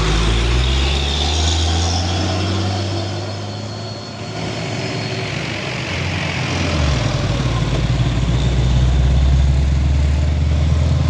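Heavy truck engine running. It eases off about four seconds in and builds up again from about seven seconds.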